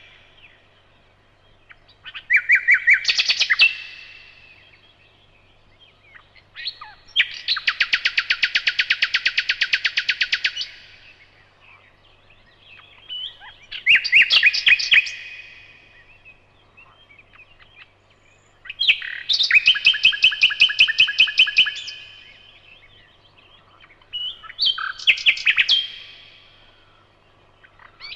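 Nightingale singing: five separate song phrases with pauses of a few seconds between them. The middle phrase is a long, fast run of the same note repeated many times a second.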